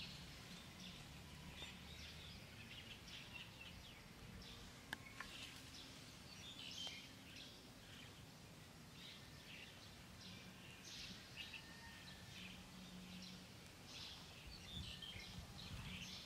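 Faint outdoor ambience with birds chirping in many short, high, scattered calls over a low steady hum.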